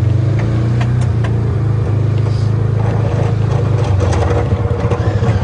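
Polaris Ranger 570 EFI UTV's engine running steadily, a loud, even drone with scattered sharp clicks over it.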